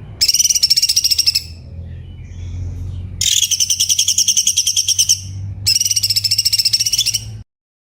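Cucak cungkok singing in three loud bursts of rapid, high chattering trills, a faint high whistle between the first two. A steady low hum runs underneath, and the recording cuts off abruptly to silence near the end.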